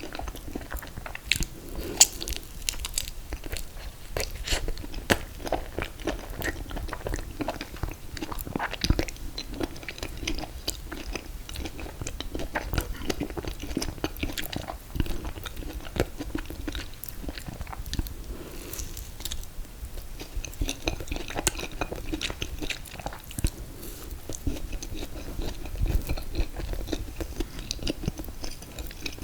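Close-miked eating of an ice cream cake of confetti cake and mint chocolate chip ice cream: biting and chewing, with many small, irregular, wet mouth clicks and crunches.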